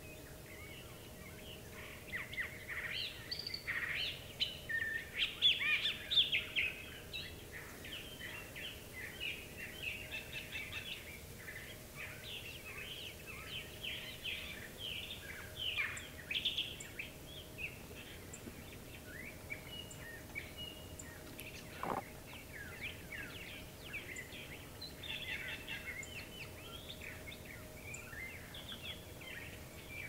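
Several wild songbirds singing and chirping in quick, overlapping phrases, busiest in the first few seconds, with one sharply falling note about three-quarters of the way through.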